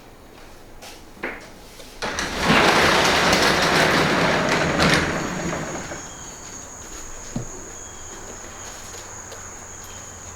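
A Yamaha 250F four-stroke dirt bike engine swells loudly about two seconds in, holds for a few seconds and fades away, as the bike runs up and goes by. After it fades, a faint steady high-pitched tone continues.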